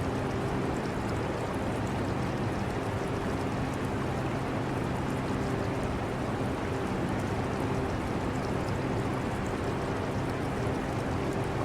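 Air conditioner running with a steady hum and whoosh, mixed with the trickle of aquarium water.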